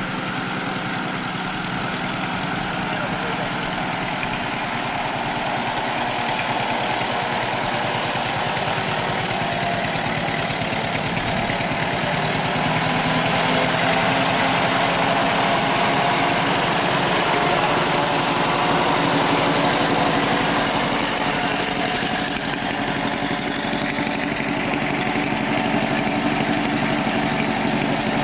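Tractor engine running steadily as the tractor is driven, growing louder over the first dozen seconds and easing off a little past the middle.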